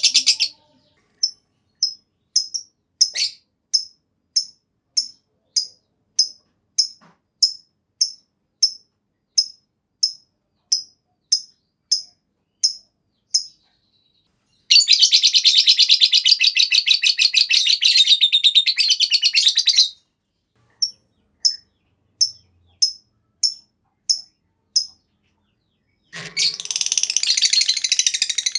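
Lovebird calling: a string of short, high, evenly spaced chirps, then a long continuous rapid chattering trill (the 'ngekek panjang') for about five seconds, more chirps, and another long trill starting near the end.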